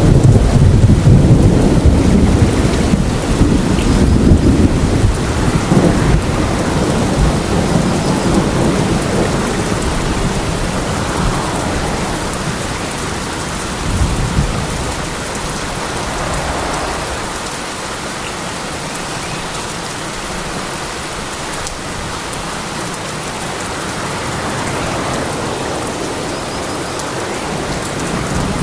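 Steady rain falling, with a heavy low rumble of thunder over the first several seconds that slowly dies away. A short low thud comes about halfway through, then only the rain continues.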